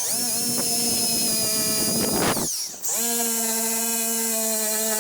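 Drill spinning a wire wheel against a car door's paint and rust, running with a steady whine in two runs: the first winds down about halfway through, and the second starts a moment later.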